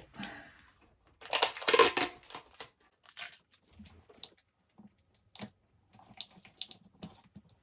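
Rustling and crinkling as items and packaging are handled and pushed down into a gift basket, loudest in a burst between one and three seconds in, followed by scattered small clicks and taps.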